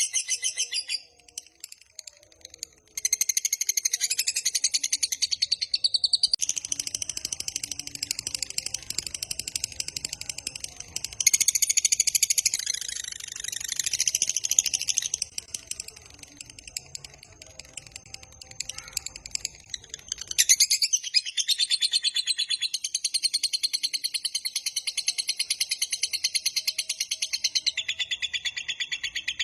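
Lovebird ngekek: a long, very fast, high-pitched chattering trill run on for many seconds without a pause, breaking off briefly about a second in and starting again about three seconds in.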